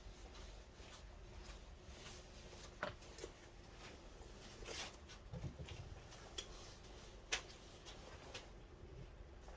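Faint, scattered clicks and light knocks of small parts and tools being handled at a workbench. The sharpest clicks come about three and seven seconds in.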